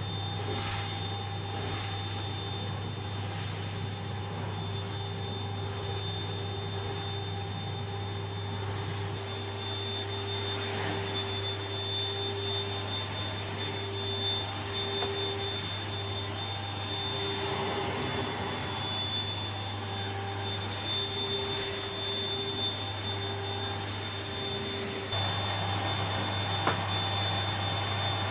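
National Panasonic Jet-Flo MC7540 cylinder vacuum cleaner with its 1300-watt motor running steadily in use, with a steady hum and high motor whine. A mid-pitched whistle in the airflow wavers and comes and goes through the middle, with a few light knocks, and the sound steps up louder a few seconds before the end.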